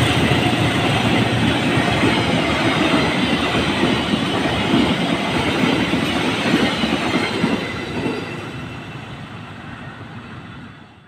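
Passenger train coaches passing close by at speed, with a loud, steady rush of wheel-and-rail noise. The noise fades away over the last few seconds as the final coach goes by and the train recedes.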